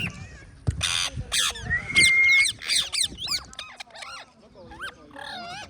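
Pet parrots calling: a run of quick chirps and harsh squawks, with one clear held whistle about two seconds in.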